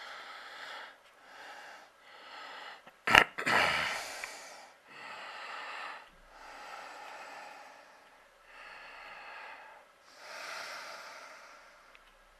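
A person breathing close to the microphone, in long regular breaths. A sharp click sounds about three seconds in.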